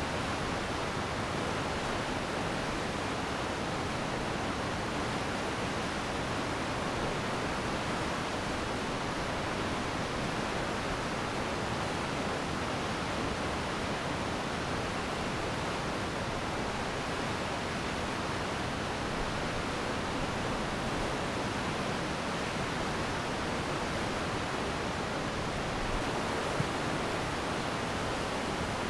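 Glacier meltwater stream rushing steadily in a constant, even hiss of flowing water.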